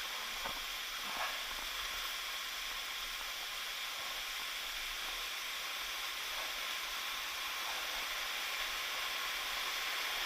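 Steady rushing hiss of a waterfall, with a couple of faint knocks near the start.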